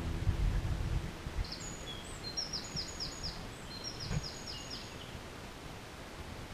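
A small songbird singing: two quick phrases of repeated high chirps, four or five notes each, starting about two seconds in. Low rumbling in the first second or so, and a single soft thump about four seconds in.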